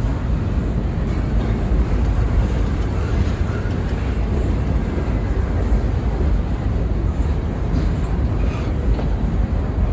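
Freight train rolling past, a steady loud rumble of railcars on the rails.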